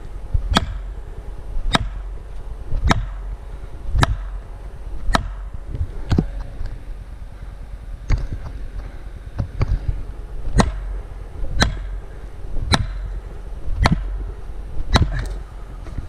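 Repeated blows driving a felling wedge into a tree cut, evenly paced at about one strike a second, a few lighter ones in the middle.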